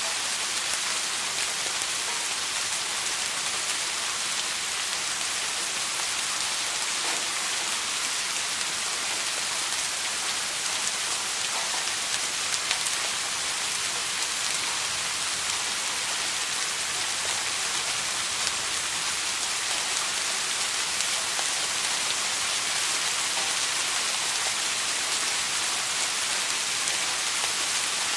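Steady rain falling on a surface, an even hiss with scattered small drop taps and no let-up.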